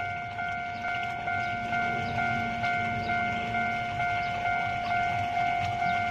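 Railway level-crossing warning bell ringing in a steady repeating ding, a little over two strokes a second, with a low rumble underneath.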